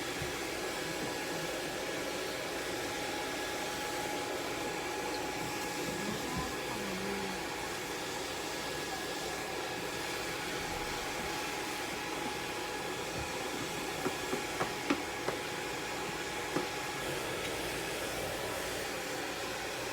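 Blow dryer running steadily with a faint whine, drying a wet cat's fur. About two-thirds of the way through there are several short clicks.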